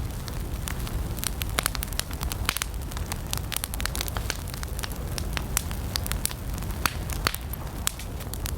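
Wood campfire burning, crackling with many irregular sharp pops over a low steady rumble.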